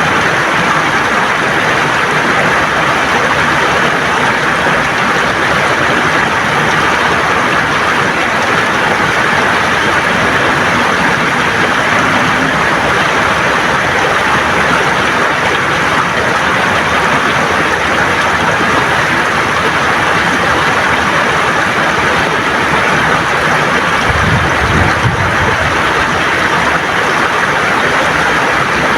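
River water running and gurgling over stones, a steady rushing hiss. A brief low rumble joins it near the end.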